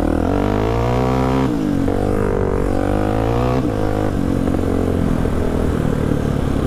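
Polaris Predator sport quad's engine accelerating hard along a trail. Its pitch climbs, drops sharply at a gear shift about a second and a half in, climbs again and drops at another shift near four seconds, then runs steadier at speed.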